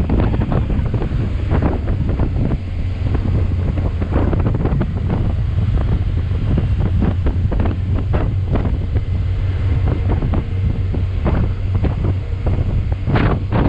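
Heavy wind buffeting on the microphone while riding a motorcycle, gusting irregularly, with the bike's engine drone steady underneath.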